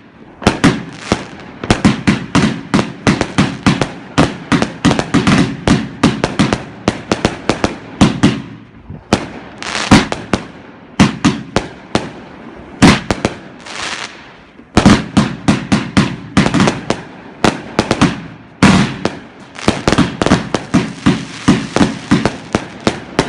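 Two BrightStar Cosmic Chaos 49-shot firework cakes, linked by quick match, firing in rapid volleys of loud shots, several bangs a second. There are short lulls about nine and fourteen seconds in.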